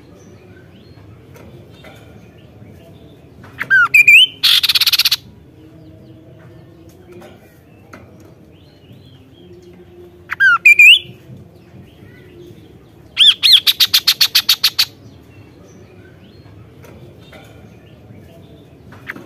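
Kaso-kaso bird calling loudly in short bouts: a couple of quick curving whistled notes followed by a harsh buzzy burst about four seconds in, the same whistled notes again about ten seconds in, and a fast rattling run of about eight notes a second lasting a second and a half near thirteen seconds.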